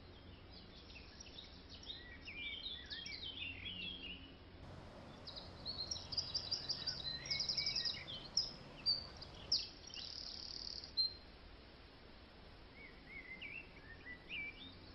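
Several birds chirping and singing over faint background noise: scattered high chirps at first, then fast trills of rapidly repeated high notes and a short buzzing call a little past the middle, thinning to a few soft chirps near the end.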